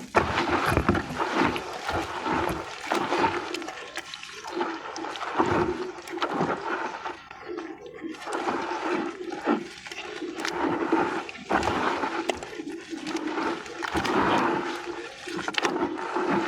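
Crumbled sand-and-cement discs being worked as a wet paste in water: continuous sloshing and squelching with small gritty clicks.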